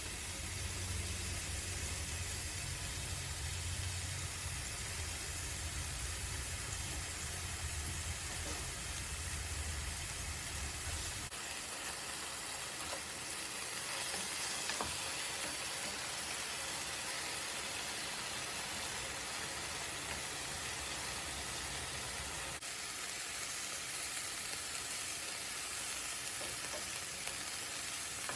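Food sizzling steadily in a hot pan, with a low hum under it for the first third. The sound changes abruptly twice, about a third and two thirds of the way through.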